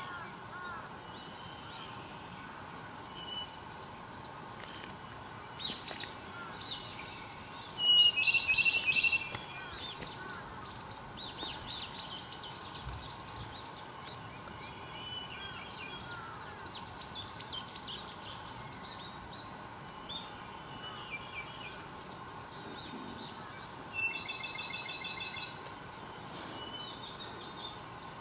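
Several wild birds calling and singing over a steady outdoor hiss: scattered chirps and whistles, with a loud fast trill about eight seconds in and more trilled phrases later.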